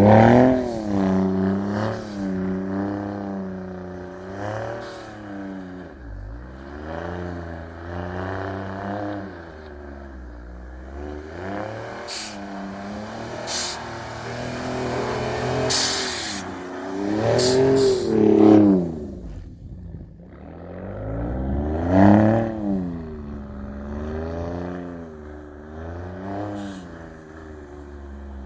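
2018 Ford Raptor's twin-turbo V6 running through a Borla exhaust, revving up and easing off again and again while the truck drives through deep snow. The hardest revs come at the very start, about two-thirds of the way in, and shortly after a brief lull.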